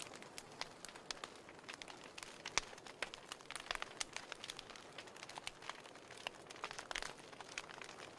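Wood fire burning in a fireplace: a soft steady hiss dotted with irregular crackles and small pops, a sharper pop about two and a half seconds in.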